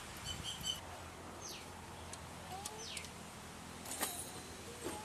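Faint bird calls: a short run of high chirps, then two quick downward-sliding whistles, with a couple of soft clicks near the end over low background noise.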